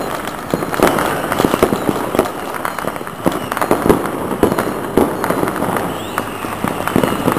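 Many fireworks and firecrackers going off across a city at New Year, a continuous crackle of overlapping bangs and pops near and far.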